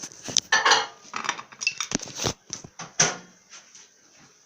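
A dish clinking and knocking, a series of sharp clatters as a plate is set into a microwave oven, ending with a last knock about three seconds in.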